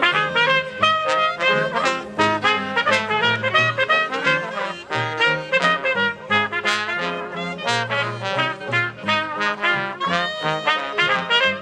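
A live traditional jazz band playing, with trumpet and trombone leading over a steady beat and a moving bass line.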